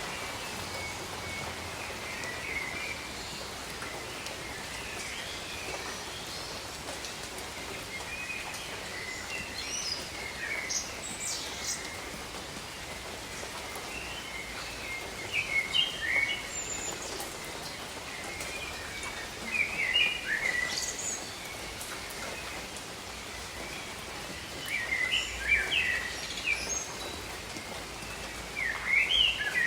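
Steady rain falling on a jungle canopy, with birds calling and chirping over it in short clusters every few seconds.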